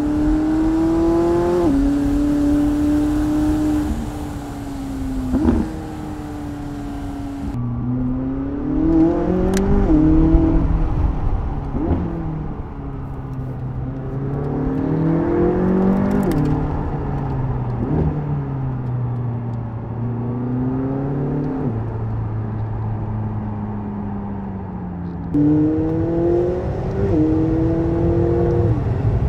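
McLaren 675LT Spider's twin-turbo 3.8-litre V8 under way, rising in pitch under acceleration and dropping sharply at each upshift, with steady cruising stretches between. A few sharp cracks stand out, one about 5 s in and one near 10 s.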